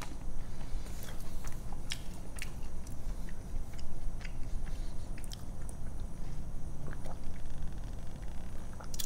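Close-miked chewing of a mouthful of queso-covered tortilla chips, with scattered wet mouth clicks.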